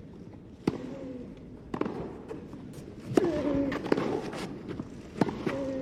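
Tennis rally: the ball is struck by rackets and bounces on the court in sharp cracks roughly every half second to a second, with short vocal calls or grunts from the players between the hits.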